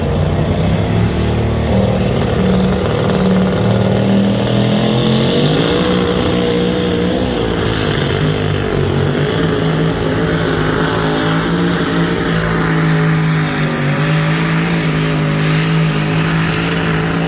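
Loud engine of a high-horsepower pulling truck or tractor held at high revs through a pull. The note steps down in pitch about five seconds in, then holds steady with a brief dip near the end.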